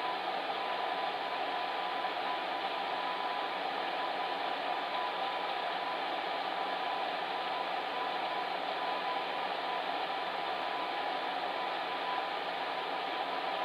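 Fan heater running steadily: an even rush of blown air with a faint steady hum.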